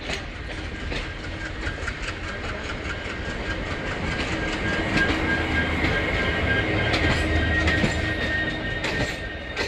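Train wheels running along the track in a quick, regular clickety-clack, with a steady high whine that grows louder from about four seconds in.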